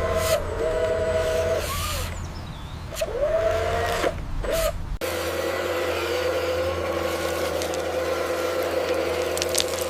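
Small electric motors and gearboxes of radio-controlled construction vehicles whining, rising and falling in pitch as they start and stop. About halfway through, the sound cuts abruptly to a steady whine at one pitch.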